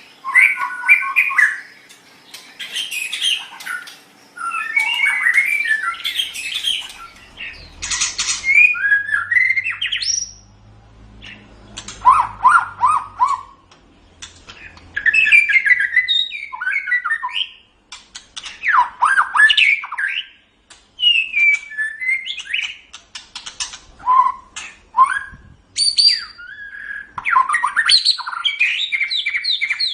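White-rumped shama (murai batu) singing a varied song of rich whistles, fast chirps and harsh squawky notes in phrases separated by short pauses.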